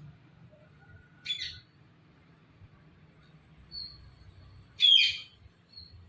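Ringneck parrot giving two short calls: one about a second in and a louder one near the end, with faint thin whistles between them.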